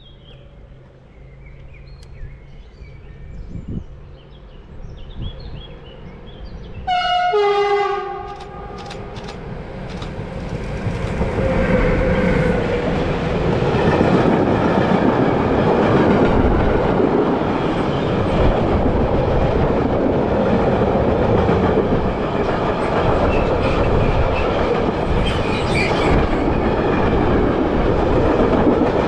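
A train sounds its horn once, a single pitched blast of about a second, with birds chirping before it. Then the train approaches and passes with a rumble and clatter of wheels on rails that grows louder and holds steady.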